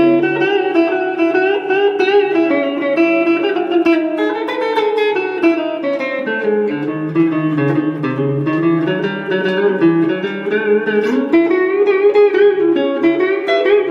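Guitar playing an instrumental break: a plucked melody line over chords, with no singing.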